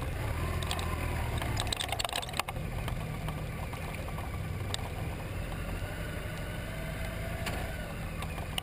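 Motorcycle engine idling with a steady low hum, and a short run of clicks and rattles about two seconds in.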